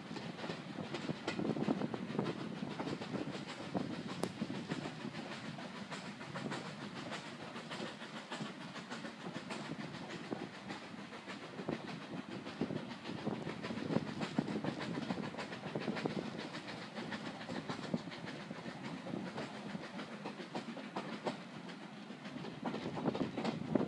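Passenger coach of a heritage railway train running along the track, its wheels clattering and clicking over the rails, with air rushing past the open window.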